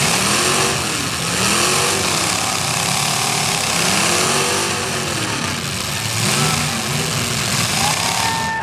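Demolition derby car engine revving up and down over and over, each rev rising and falling in pitch, over steady loud noise. A brief high-pitched squeal comes near the end.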